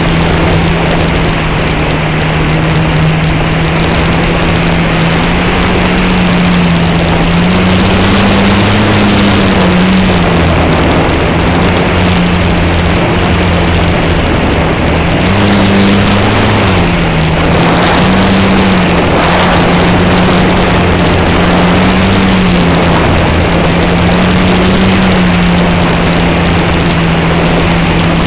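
Electric motor and propeller of an E-flite Cherokee 1.3m RC plane, heard through its onboard camera: a steady drone under loud wind rush. The pitch rises briefly a few times, about a third of the way in and again past the middle, then settles back.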